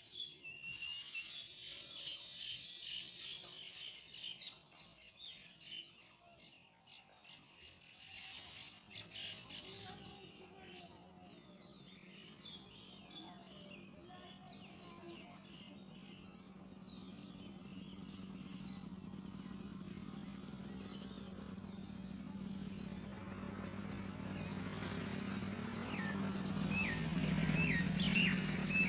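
Baya weaver birds chirping at the nest colony: many quick, high twittering calls, thickest in the first third, with a run of short hooked chirps near the end. A low steady hum swells underneath from about a third of the way in and grows louder.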